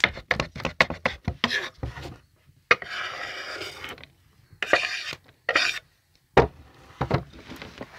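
Irregular clicks and knocks with a few short scraping sounds between them, and a sharper knock about six seconds in: objects being handled.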